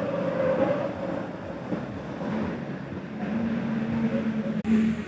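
Heavy vehicle engine running with a steady drone whose pitch drops about halfway through, broken by a sudden cut near the end.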